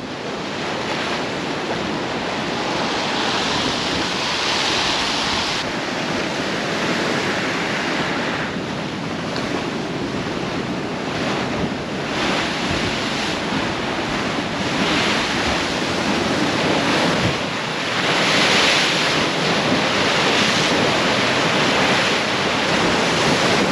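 Rough sea waves surging and breaking, with strong wind buffeting the microphone; the rush swells and eases several times.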